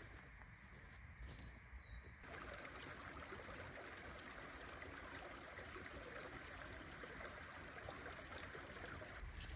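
Faint flowing water, like a small woodland stream, coming in suddenly about two seconds in. Before it, a few faint bird chirps.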